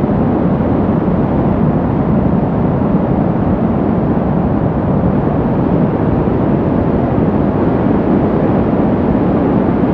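Steady brown noise: an even, deep rushing hiss, weighted to the low end, with no tones or rhythm.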